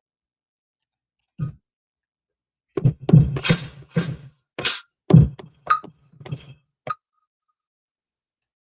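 Drum sounds triggered on a Native Instruments Maschine MK3: a single low hit, then a loose, unrhythmic run of about a dozen low thuds and bright, sharp hits over four seconds, as sounds are auditioned on the pads.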